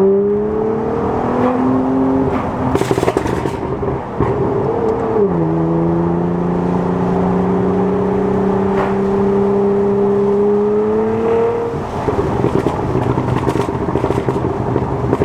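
Nissan GT-R R35's twin-turbo V6 through a straight-pipe exhaust, pulling hard through the gears: the engine note rises, drops sharply at shifts about two and a half and five seconds in, then climbs slowly. About twelve seconds in the steady note gives way to a rougher, uneven sound as it comes off the throttle.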